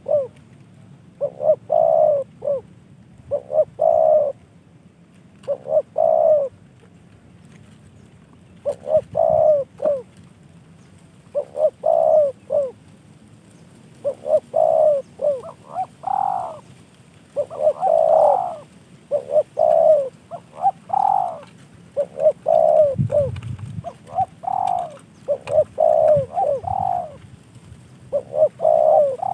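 Spotted dove cooing over and over, each phrase two or three notes, with pauses of about a second between phrases.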